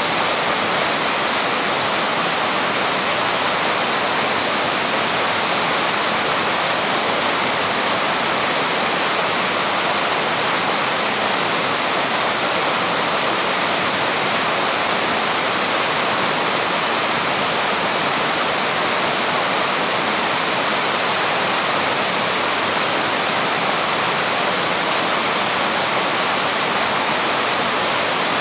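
A waterfall rushing steadily: an even, unbroken roar of falling water with no other sounds.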